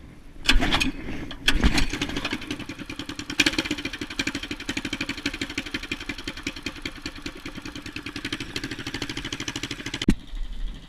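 Predator 212cc single-cylinder four-stroke mini bike engine running while it warms up in freezing cold. There are two louder surges in the first two seconds, then a steady, even idle that cuts off suddenly near the end.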